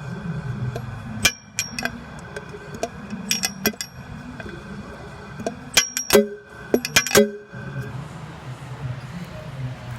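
Several sharp metallic clinks with a short ring to them, one about a second in, a few around three and a half seconds, and a cluster around six to seven seconds, over a low uneven rumble.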